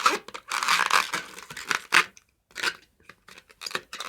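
Inflated latex modelling balloon rubbing under the hands as it is twisted to form a leg, in a string of irregular scratchy bursts with a sharp click about two seconds in.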